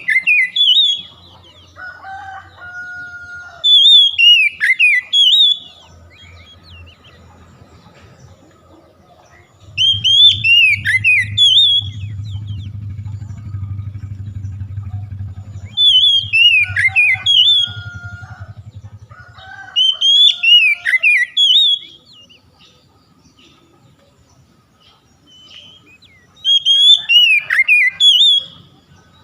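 Oriental magpie-robin (kacer) singing loud whistled phrases of quick, mostly falling notes. The phrases come about every four to six seconds, six times in all, with softer lower whistles between some of them. A low hum runs underneath through the middle.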